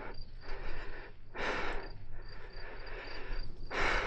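Insects, crickets by their sound, chirping in a steady, even rhythm, with two short loud rushes of noise, about a second and a half in and near the end.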